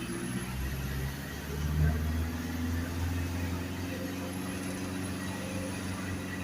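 Isuzu garbage truck's diesel engine running steadily on the move, its pitch rising briefly about two seconds in as it revs up.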